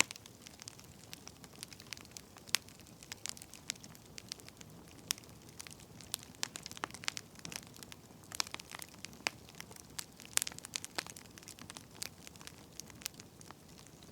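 Wood fire crackling: irregular sharp pops and snaps, a few clearly louder than the rest, over a soft steady hiss.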